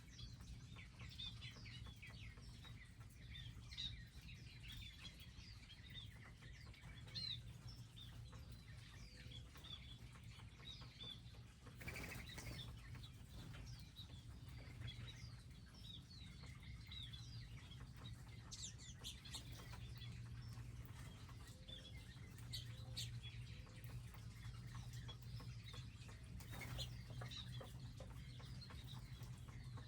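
Wild songbirds at a garden feeding area chirping with many short, high calls throughout, over a low steady hum. Two brief noisy bursts break in, about twelve seconds in and near the end.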